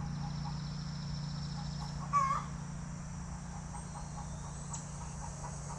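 Outdoor ambience of insects chirring high and steady over a constant low hum, with one short animal call about two seconds in.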